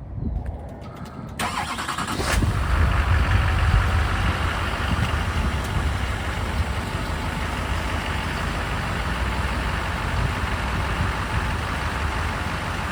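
Duramax 6.6-litre V8 turbodiesel in a Chevrolet C5500 4x4 truck starting: the starter cranks about a second and a half in, the engine catches within about a second, then settles into a steady idle. A quick, easy start on a not particularly cold engine.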